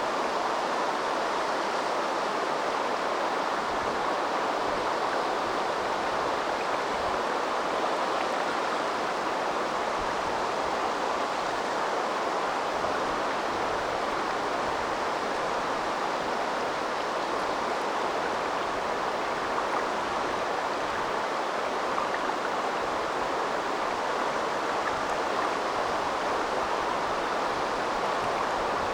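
River water flowing: a steady, unbroken rush of water with no single splashes or breaks.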